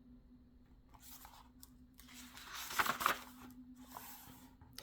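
A book's page being turned: faint paper rustling and sliding that builds from about a second in, is loudest around the middle, and fades out.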